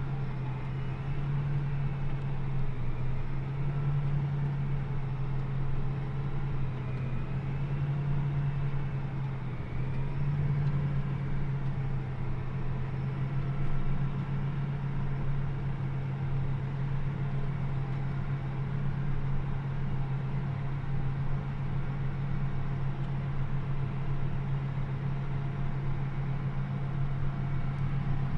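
John Deere 8400R tractor's diesel engine running steadily as it drives, a constant low drone. The pitch rises and dips slightly during the first ten seconds or so, then holds even.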